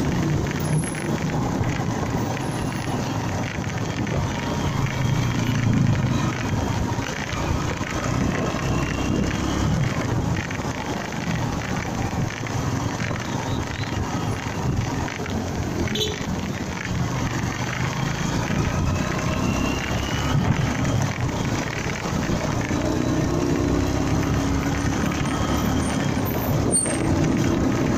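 Honda MegaPro Primus single-cylinder motorcycle engine running on the road, its pitch rising and falling with speed, under steady wind and road noise.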